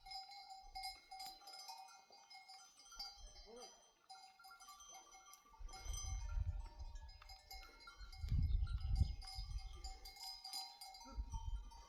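Bells on a flock of sheep ringing steadily, with a few sheep bleating. A low rumble rises about halfway through and is the loudest thing for a few seconds.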